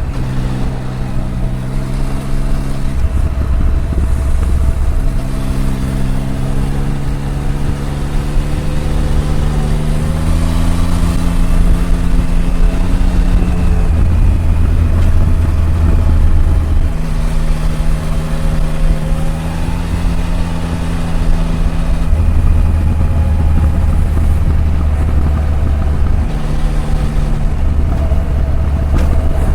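Triumph Tiger 1050's inline three-cylinder engine running under way, its note holding one pitch for a few seconds, then moving to another as the throttle and speed change.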